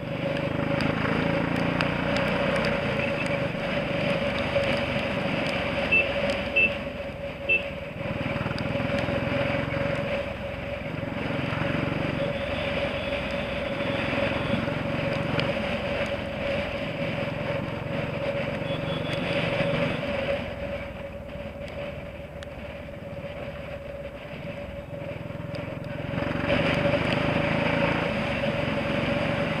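Royal Enfield single-cylinder motorcycle engine running under way in traffic, with road and wind noise on the microphone. Three short horn beeps come between about six and eight seconds in, and the engine goes quieter for several seconds past the middle as the throttle eases.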